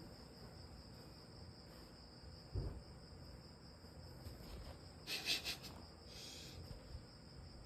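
Crickets chirping steadily in the background, with a soft low thump about two and a half seconds in and a brief rustle a little after five seconds.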